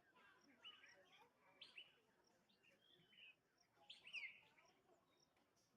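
Faint birds chirping: short high calls and quick falling notes, scattered irregularly, with the busiest bit about four seconds in.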